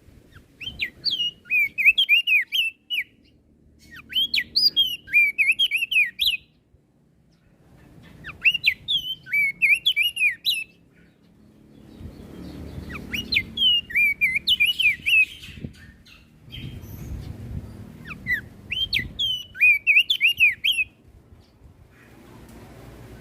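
Crested white-eye (opior jambul) singing: five phrases of quick, chattering whistled notes, each lasting two to three seconds with short pauses between. A faint low rumble sits underneath.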